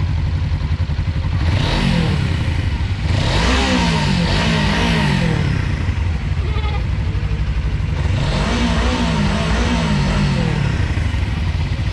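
Motorcycle engine running, revved up and down in three spells about two, four and nine seconds in, with a steady low engine sound between them.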